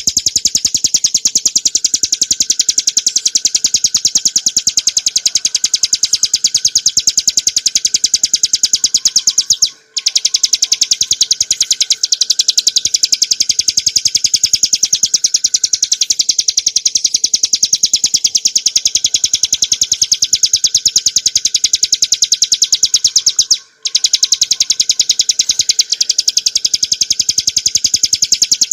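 Ciblek gunung, a small prinia, singing a long, very fast run of high notes. The run is broken by two short pauses, one about ten seconds in and one near the end.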